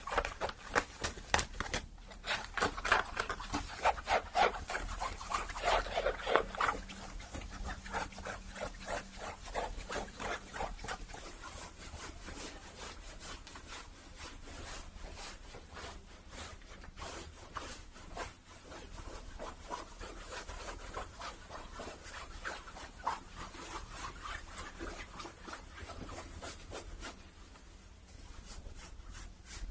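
Close-up rubbing and scratching of a hat's fabric and brim for ASMR, in quick repeated strokes, louder for the first ten seconds or so and then softer.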